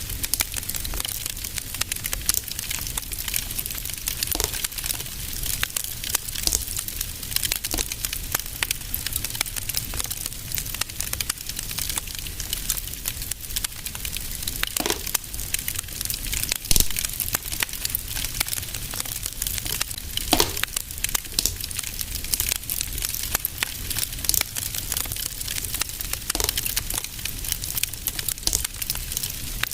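Wood fire crackling in a fireplace: a steady stream of small crackles and hiss over a low rumble, with a louder pop now and then.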